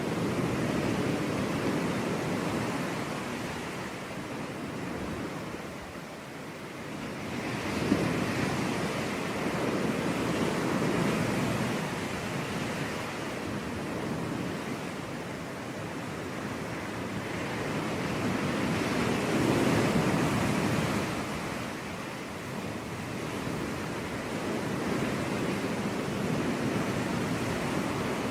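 Sea waves breaking on a beach and washing back, the surf swelling and ebbing in slow surges every several seconds. A brief sharp click about eight seconds in.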